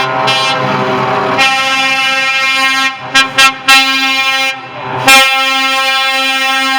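Truck air horns sounding loudly in long, steady blasts that change pitch partway through. About three seconds in come three short toots, then another long held blast.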